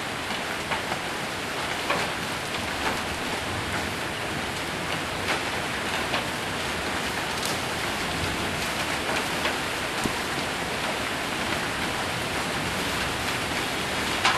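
Heavy rain with hail falling on a roof: a steady hiss broken by scattered sharp ticks of single stones striking.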